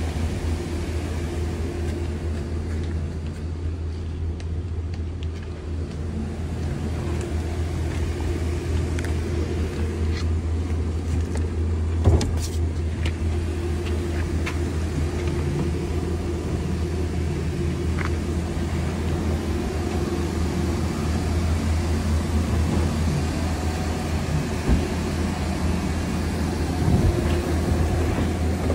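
Range Rover Velar engine idling with a steady low hum, with a few sharp clicks partway through.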